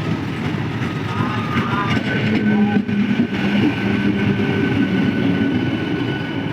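Train running on the track: a steady rumble of wheels on rails, with a thin high whine joining in about two seconds in.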